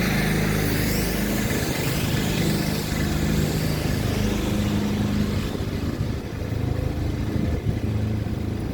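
A train passing close by, a steady rumble that eases off slightly near the end.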